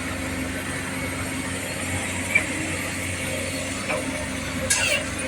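Heavy diesel machinery engine running steadily at a construction site, with a short high falling squeak near the end.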